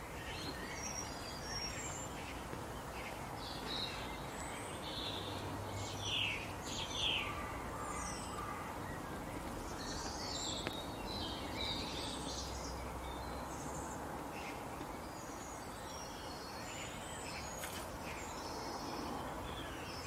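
Several birds chirping and calling in short, scattered notes, the loudest a pair of quick falling calls about six to seven seconds in, over a steady background hiss.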